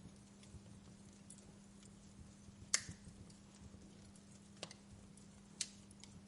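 Wood fire in a fireplace crackling: scattered small ticks and three sharper pops, the loudest a little before halfway, over a faint steady low hum.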